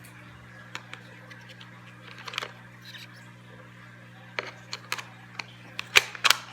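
Plastic parts and packaging of a coffee maker being handled: scattered short clicks and rustles, coming closer together and louder near the end, over a steady low hum.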